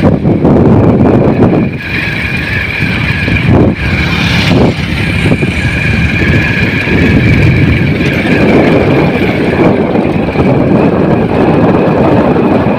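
Vehicle running along a road: steady engine and road noise, with a couple of brief dips in level.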